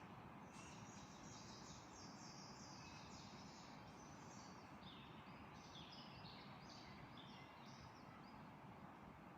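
Small songbirds singing faintly: a dense run of short, high chirps and trills, over a steady background hiss.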